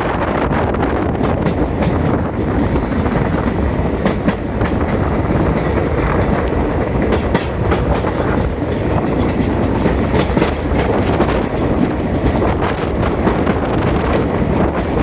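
Passenger train running along the track: a steady loud rumble with the clickety-clack of wheels over rail joints, the clicks coming thicker in the second half.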